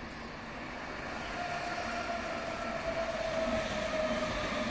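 Berlin S-Bahn electric train running along the track, growing louder as it comes nearer, with a whine that slowly falls in pitch.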